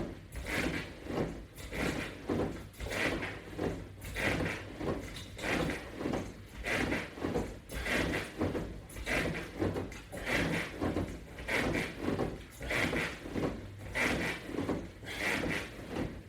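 Resistance-band exercise equipment worked through steady repetitions: a rhythmic sliding, rubbing sound repeating about once every 1.2 seconds, with a low steady hum underneath.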